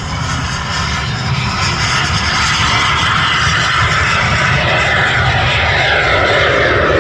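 A display airplane's engine running loud and steady overhead, growing slowly louder, its pitch sliding gradually down over the last few seconds as it passes.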